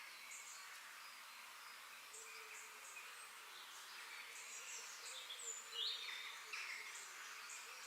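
Outdoor nature ambience: a steady high hiss of insects with scattered short bird chirps, the loudest call about six seconds in.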